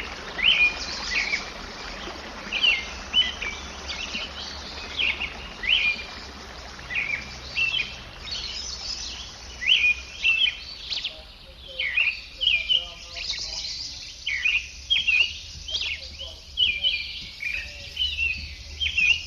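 Small birds chirping outdoors, a run of short repeated calls that goes on throughout, over a steady low rumble.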